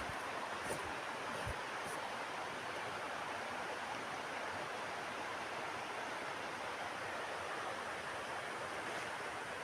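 Mountain river rushing steadily over rocks, an even wash of water noise.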